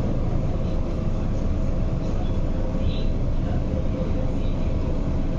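Metro-Cammell MLR electric multiple unit running at speed, heard from inside the carriage: a steady rumble of wheels on track with a faint steady hum.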